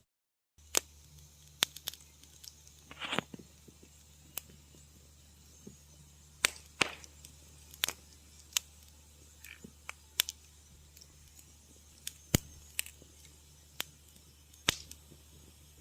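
Wood fire crackling in a fireplace: irregular sharp pops and snaps, about a dozen loud ones, with a short hiss about three seconds in, over a faint low hum. The sound drops out completely for a moment at the very start.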